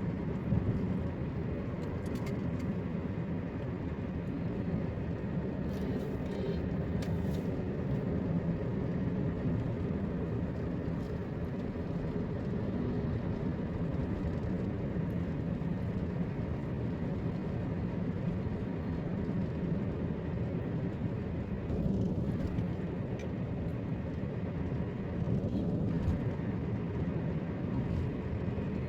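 A car on the move: steady engine and road noise with no change in pace, cut off abruptly at the end.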